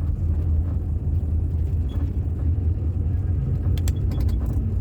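Steady low rumble of a moving tour bus, engine and road noise heard from inside the cabin, with a few light clicks or rattles about four seconds in.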